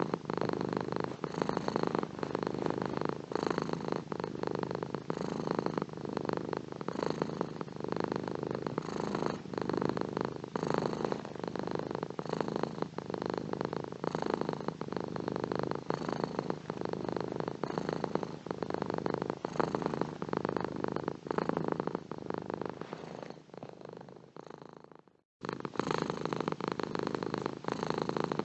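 Domestic cat purring steadily with a fast, rough pulse. About three-quarters of the way through it fades out to silence, then starts again abruptly a moment later.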